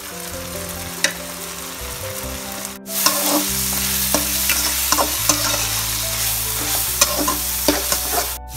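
Chopped vegetables and freshly added spice powders sizzling in oil in a kadai while a slotted spatula stirs and scrapes them. There is a brief break near three seconds in, after which the stirring strokes are louder.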